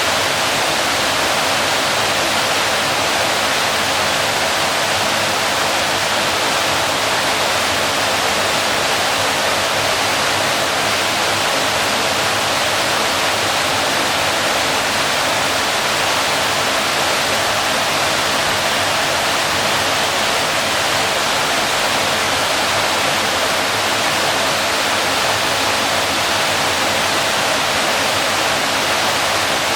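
Waterfall: water falling and crashing into a pool in a steady, unbroken rush of white-noise-like sound.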